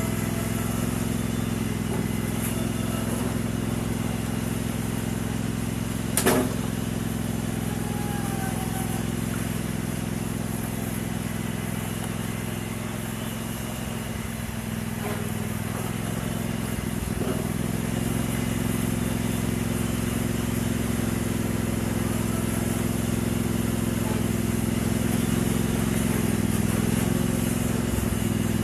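Riding lawn tractor engine running steadily, with one sharp metallic clank about six seconds in.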